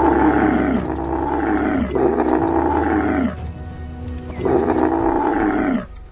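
Dromedary camels bellowing: four rough, loud calls, each about a second long and falling in pitch, with a pause of about a second before the last one. Background music with a steady beat runs underneath.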